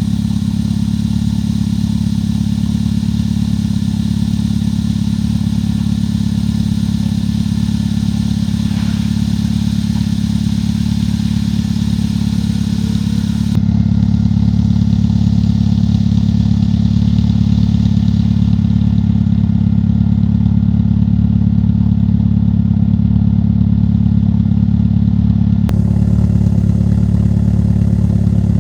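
Citroën Saxo VTS's 1.6-litre 16-valve four-cylinder engine idling steadily through a Group N exhaust: standard manifold, 50 mm stainless steel pipe, 100–200 cell race catalyst and two stainless steel silencers. The exhaust note holds an even pitch, a little louder from about halfway.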